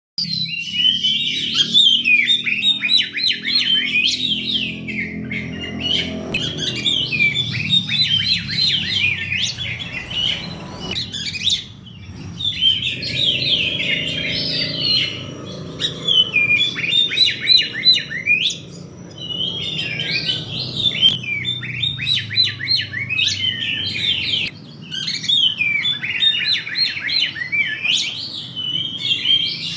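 Oriental magpie-robin (kacer) singing continuously in full song: rapid, varied whistled and chattering phrases with a few brief pauses, over a low steady hum.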